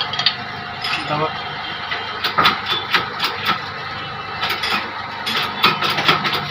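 Irregular metallic clicks and taps from hand tools and motor parts being handled, several a second in the second half, over a steady low hum, with voices in the background.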